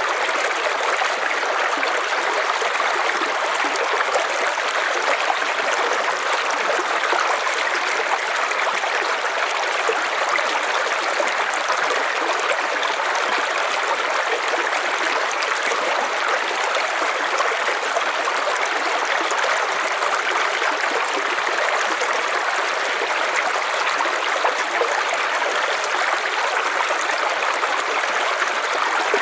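River water flowing steadily, a continuous rushing and trickling over stones.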